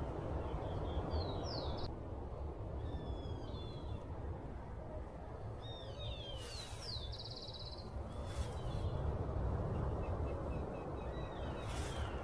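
Several small birds singing and calling in short phrases, with quick rising and falling notes and a rapid trill about two-thirds of the way in, over steady low background noise with a few brief crackles.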